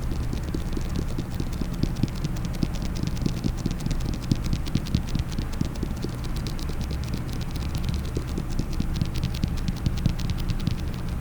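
Fast, uneven tapping and scratching on a case, many quick clicks a second, over a steady low hum.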